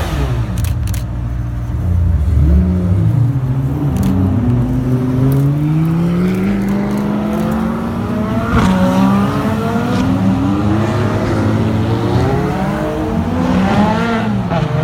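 Supercar engine running loud, its pitch rising in several long climbs as it revs and accelerates, with a few sharp cracks near the start.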